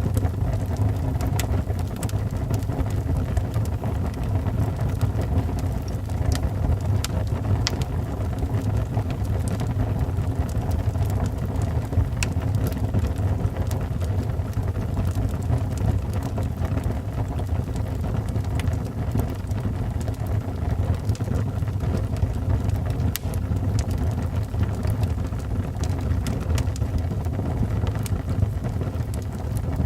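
Wood fire burning in a fireplace: a steady low rushing of the flames with scattered sharp crackles and pops.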